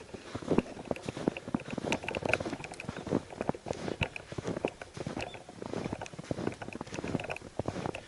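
Footsteps crunching through snow at an uneven walking pace.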